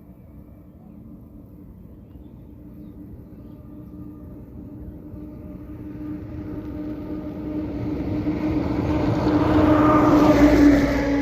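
Train approaching with a steady engine hum, growing louder for about ten seconds and loudest near the end as it comes past.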